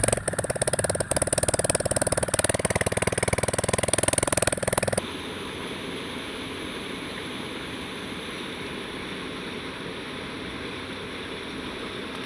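An engine runs with a fast, even pulse for about five seconds, then stops abruptly. After it comes a steady, quieter rush of wind and surf.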